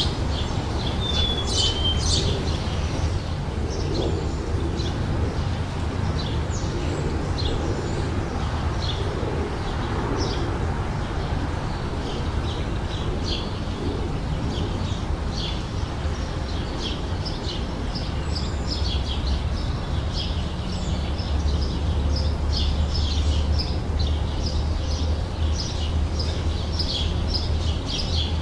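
Birdsong: many short, high chirps from several small birds, coming thicker near the end, over a steady low rumble.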